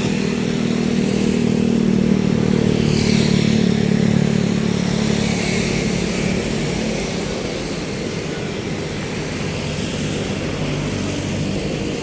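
Ferry boat's engine running with a steady low drone, swelling slightly a few seconds in and easing off after about six seconds.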